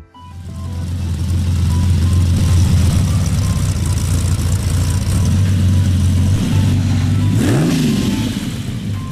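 Sports car engine running hard, swelling in over the first second or two, with a brief dip, rise and fall in pitch near the end like a rev or gear change. Background music plays underneath.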